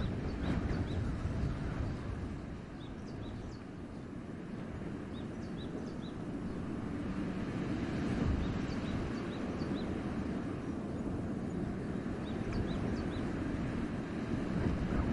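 Wind rushing through forest trees in gusts, low and steady with swells, while small birds give short, high chirps in several quick bunches.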